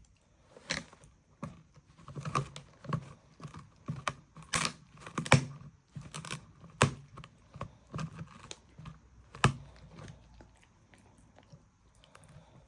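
A dog chewing and crunching food: irregular sharp crunches and clicks, a few loud ones in the middle, growing sparser and quieter near the end.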